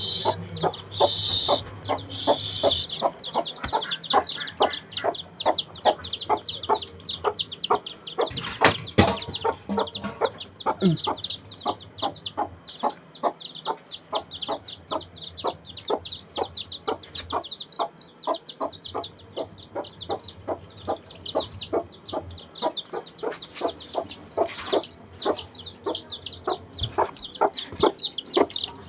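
Chickens clucking steadily in short, repeated calls, about three a second, over a constant stream of quick, high-pitched chirps.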